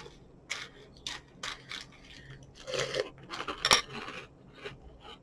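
Dry cereal and marshmallow pieces being handled in a bowl: a string of short rustles and scrapes, with one sharp clink a little past halfway.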